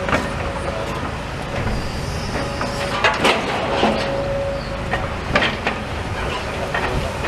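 Steady engine rumble with a faint steady whine, broken by a few sharp knocks and crunches about three seconds in and again about five and a half seconds in.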